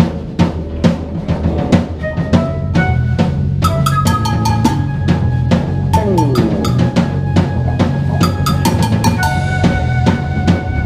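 Rock band playing an instrumental intro live: a drum kit beat with bass drum and snare, joined about two seconds in by sustained pitched notes from guitar and keyboard over a bass line, with a falling slide of notes a little past halfway.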